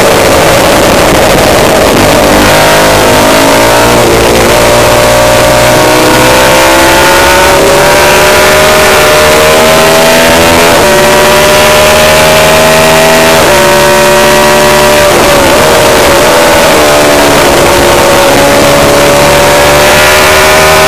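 Racing motorcycle engine run hard and loud, its pitch climbing under throttle and dropping sharply at each gear change, several times over.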